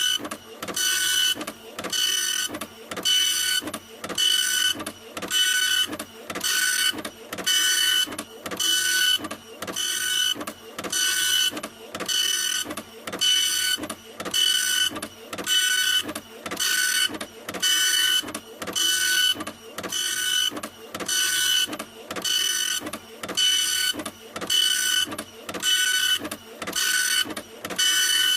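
Printer running continuously, its mechanism working in an even, repeating back-and-forth rhythm, each stroke a whirring pass with a high motor whine.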